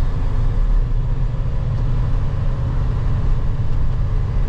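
Semi truck's diesel engine and road noise droning steadily inside the cab while driving, the truck pulling a loaded tanker.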